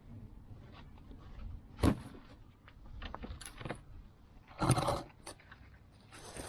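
Metal hand tools clinking and knocking during work on a car's front suspension: a sharp metallic knock about two seconds in, a short rattling, jangling burst near five seconds, and lighter clicks in between.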